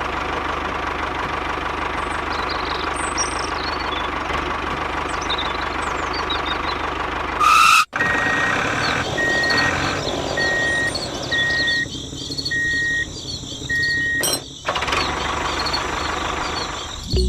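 An engine runs steadily. About eight seconds in there is a sudden break, and then a vehicle reversing alarm beeps six times, roughly once a second.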